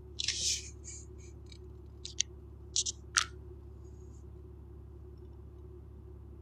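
Steady low hum of a truck cabin, with a handful of short, sharp clicks and hissy rustles in the first few seconds, the loudest click about three seconds in.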